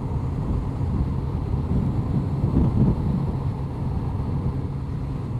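Honda CBR1100XX Blackbird's inline-four engine running steadily at road speed under way, heard from the rider's position with low wind and road noise.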